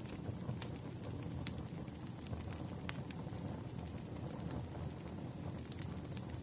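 Wood fire crackling: a steady low rumble of burning logs with a few sharp, irregular pops.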